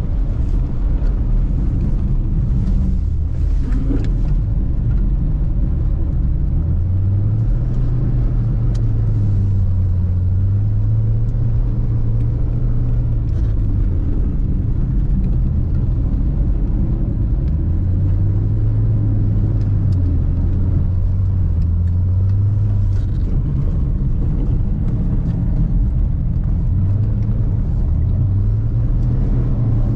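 Subaru Forester SJG's turbocharged flat-four engine driven hard on an ice course, its pitch rising and falling several times as the throttle is opened and lifted through the turns, over a steady low road rumble.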